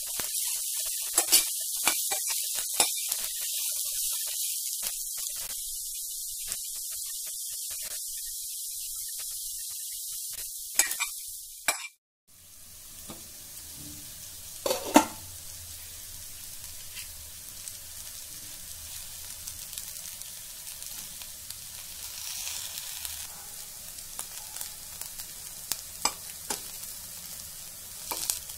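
Brinjal (aubergine) pieces sizzling as they fry in a stainless steel pan, with a metal spoon scraping and clicking against the pan as they are stirred. The sizzle is louder for about the first twelve seconds, cuts out briefly, then carries on quieter over a low hum.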